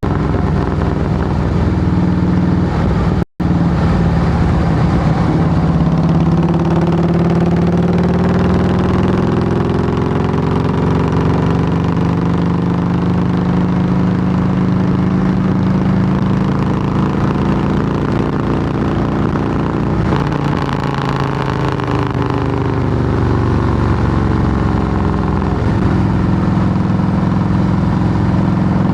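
Harley-Davidson Softail Heritage Classic's V-twin running loud through Samson fishtail true-dual exhausts, its note rising and falling slowly. The sound cuts out for an instant about three seconds in.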